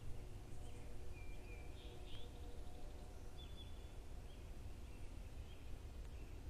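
Several faint, short bird chirps, high-pitched and scattered through the first few seconds, over a steady low rumble of outdoor background noise.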